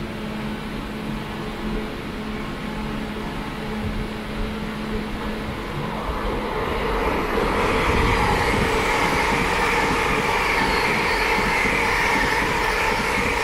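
LNER Class 801 Azuma electric train passing through at speed: a rushing rumble of wheels on rail that builds a little past halfway and stays loud. A steady low hum underneath stops at about the same time.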